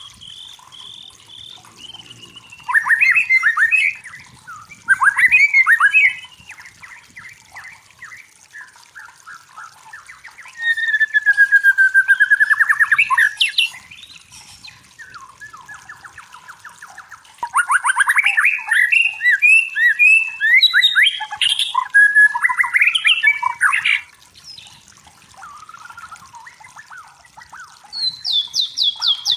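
White-rumped shama (murai batu) singing loud, varied phrases of rapid repeated notes and trills. There are five or so separate bursts of song, the longest lasting several seconds, with quieter twittering between them.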